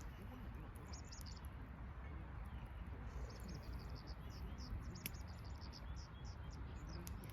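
High, rapid chirping: a short run of quick notes about a second in, and a longer run from about three to six and a half seconds, over a low steady outdoor rumble, with a few faint sharp clicks.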